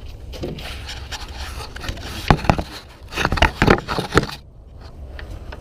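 Cardboard backing being handled and pulled at, giving rough crinkling, scraping noises in two bursts, one about two seconds in and a longer one a second later, over a steady low rumble.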